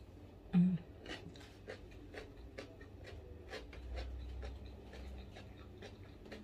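A person chewing crunchy food close to the microphone: irregular crisp crunching clicks, roughly two a second, with a brief low hum about half a second in.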